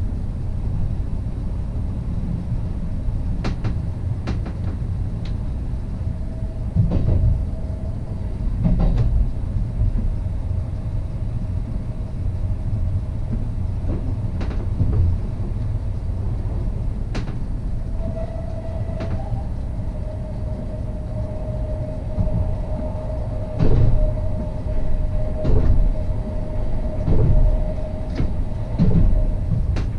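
Class 69 electric multiple unit running along the line: a steady low rumble with irregular knocks and clicks from the track. A steady whine comes in briefly about six seconds in and holds from about eighteen seconds until near the end.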